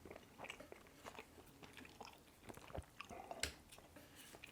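A person chewing and biting food close to the microphone: irregular soft wet clicks and smacks of the mouth, with an occasional light crunch.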